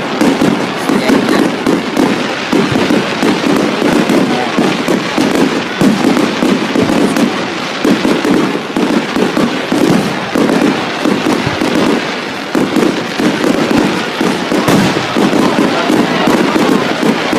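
A fireworks barrage: many bangs and crackles follow one another in quick, unbroken succession, loud throughout.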